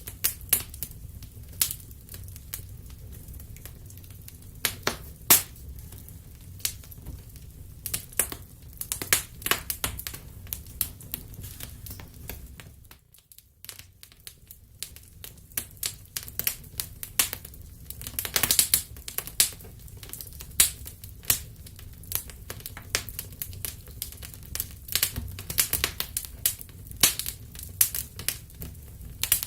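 Wood fire in a fireplace crackling, with frequent irregular sharp pops and snaps over a low steady rumble. The fire briefly goes quieter about halfway through.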